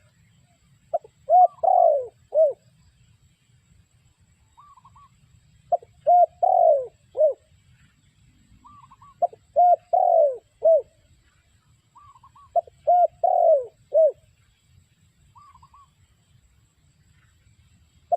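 Spotted dove cooing its song four times, roughly every three and a half seconds. Each phrase is a few short coos with one longer coo that falls in pitch.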